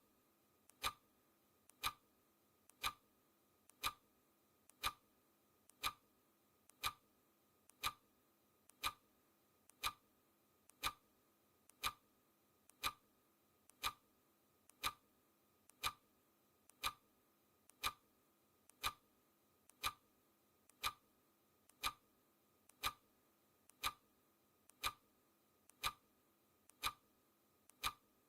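Clock-style ticking from a countdown timer: one sharp tick every second, perfectly steady, each with a fainter click just before it.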